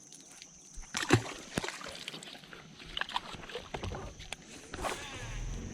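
Irregular knocks and clatter on a bass boat, the loudest about a second in. A steady low hum starts near the end.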